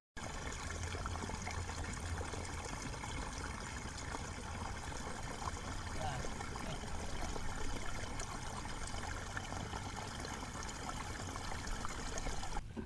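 Water trickling and flowing steadily.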